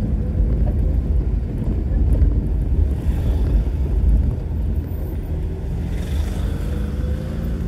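Car engine running with a heavy low rumble as the car is driven, and a faint tone rising slowly in pitch near the end.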